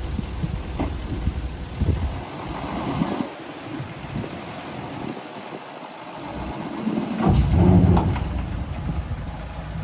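Heavy diesel construction machinery running, with scattered knocks and clanks. The engine sound drops away for a few seconds mid-way, then surges loudly about seven seconds in.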